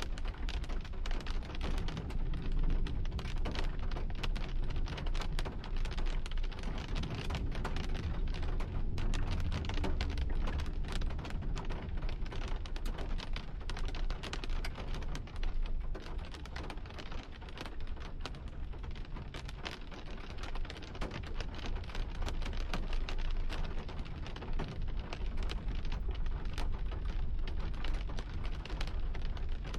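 Heavy rain from a thunderstorm striking a hard surface, a dense, irregular run of sharp drop hits over a steady hiss, with a steady low rumble underneath.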